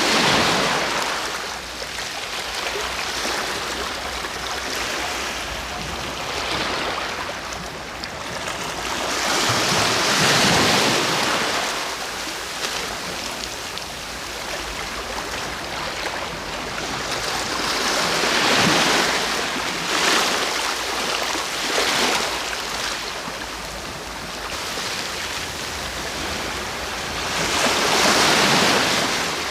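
Sea waves breaking and washing onto the shore, a steady rush that swells into a louder surge every several seconds.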